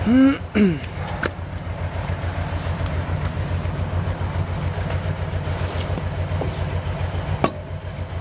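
A vehicle engine idling with a steady, even low rumble. Near the start comes a short gliding vocal sound, a light click about a second in, and a sharper knock near the end.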